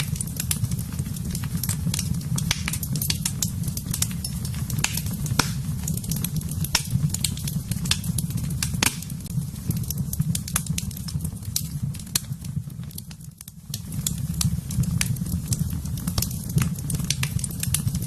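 Wood fire crackling in a fireplace: irregular sharp pops and snaps over a steady low rumble, briefly quieter about thirteen seconds in.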